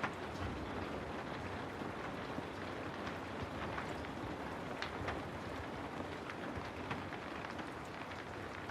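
Steady rain falling, a constant hiss with scattered sharper drops ticking through it.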